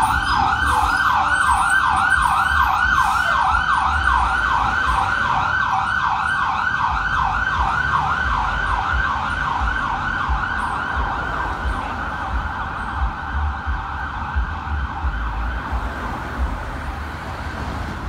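Fire engine's Federal Signal PowerCall electronic siren sounding in yelp: fast, repeated rising sweeps, about three a second, over the rumble of the truck. It grows slowly fainter toward the end as the engine pulls away.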